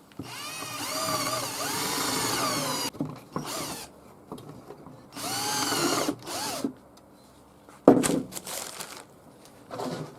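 Cordless drill-driver running in two spells of a couple of seconds each, its whine rising and falling in pitch as the trigger is worked, turning screws in the wooden nest box. A few sharp knocks follow near the end.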